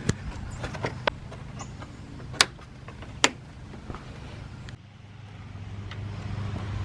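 Sharp plastic clicks and light knocks as the engine air filter housing and its panel fasteners are snapped back into place, the two loudest clicks about a second apart near the middle, over a low steady hum.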